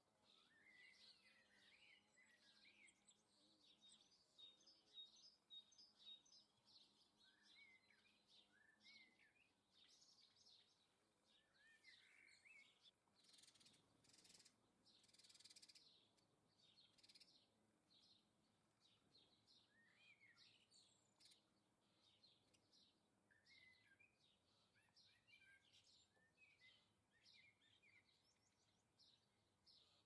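Faint chirps and twittering calls of small garden birds, many short notes coming and going, with a brief rush of noise about halfway through.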